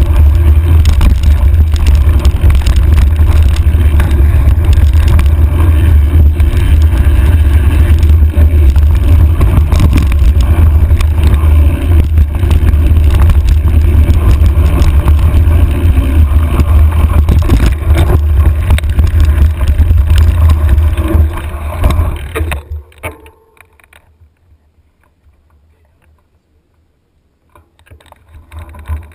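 Heavy wind buffeting on a handlebar-mounted camera's microphone, with the rattle and clatter of a mountain bike over rough trail, a loud, steady rumble that drops away sharply about three-quarters of the way through.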